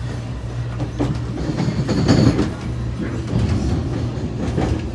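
CRRC passenger train running at speed, heard from inside the car: a steady low rumble with irregular wheel clatter, loudest about two seconds in.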